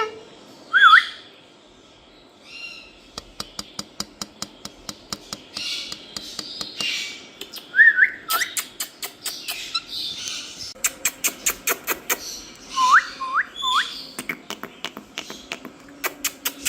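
A parrot making short rising whistles and squawky calls, a few whistles at a time, over a quick series of sharp clicks.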